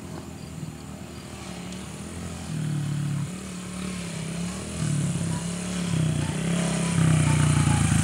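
Small single-cylinder four-stroke Honda XR mini dirt bike engine running, its pitch rising and falling as the throttle is worked, getting louder toward the end.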